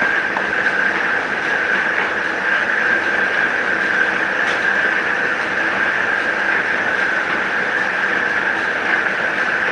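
Electric paper guillotine cutter's motor running steadily with a constant high whine, and a few faint clicks over it.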